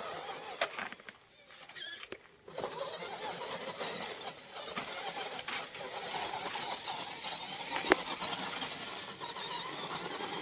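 Small electric drive motor and gearbox of a homemade RC dump truck running with a squeaky, wavering whine as the truck drives off. It starts about two and a half seconds in, after a few clicks.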